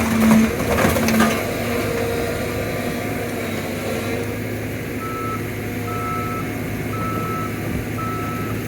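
Cat 313 excavator's diesel engine running steadily, with loud crunching and knocks of sheet metal in the first second or so as the SUV is crushed. From about five seconds in, a back-up alarm beeps four times, about once a second.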